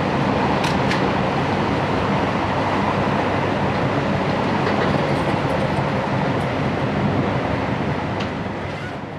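Running noise inside a JR Hokkaido Series 711 electric train car: a steady rumble and hiss, with a few sharp clicks in the first second. The sound fades down near the end.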